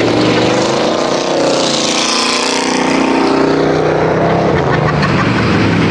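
Several V8 stock car engines running hard at racing speed, overlapping at different pitches and swelling as the cars come past about two seconds in.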